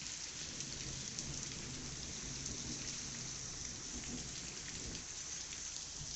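Heavy rain falling steadily, a dense even hiss, with a low rumble underneath that fades out about five seconds in.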